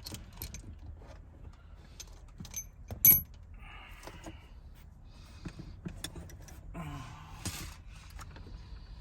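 Small metal parts and tools being handled: scattered light clicks, one sharp ringing metallic clink about three seconds in, and two short bursts of rustling.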